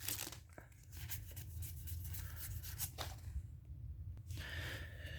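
Faint handling of Pokémon trading cards: cards sliding and flicking against one another as they are flipped through by hand, with light paper rustles that ease off about three seconds in.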